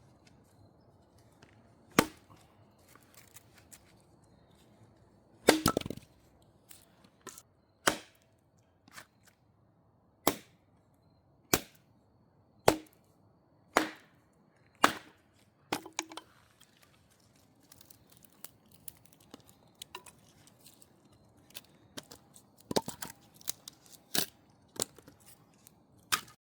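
Firewood being chopped: sharp single blows at irregular gaps of about one to two seconds, with quicker, lighter knocks and cracks near the end.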